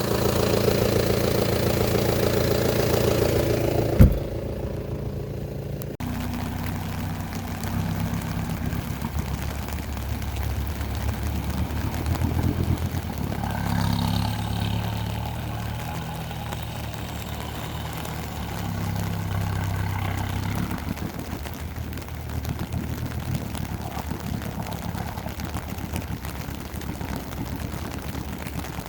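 Mahindra Roxor's 2.5-litre turbodiesel engine running, its pitch and level rising and falling at times. There is a sharp click about four seconds in.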